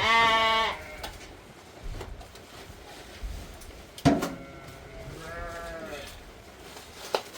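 Sheep or goats bleating: one loud call right at the start and a second, softer call about five seconds in. A sharp knock comes just after four seconds.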